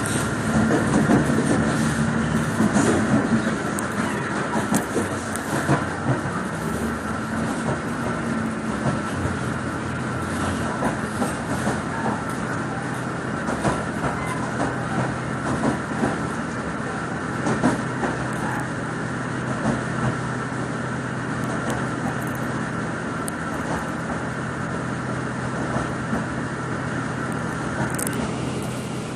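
Steady running noise of a vehicle in motion, with a few held tones and scattered short clicks.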